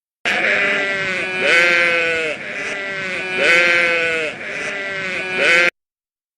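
Farm animal bleating: a run of long, wavering bleats, loudest about every two seconds, that cuts off abruptly near the end.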